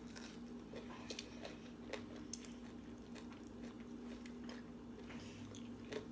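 Faint close-up chewing of steamed broccoli: soft wet mouth sounds with small scattered clicks, over a steady low hum.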